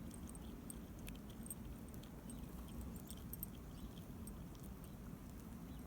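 A dog's collar tags jingling faintly in scattered clicks over a steady low rumble.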